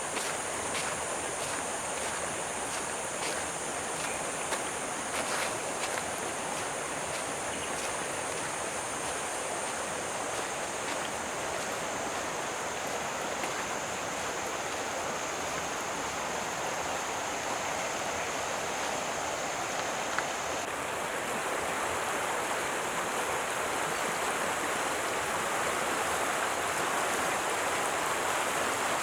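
Stream water running steadily, with a steady high-pitched whine over it. About two-thirds of the way through, the whine shifts and the water grows a little louder.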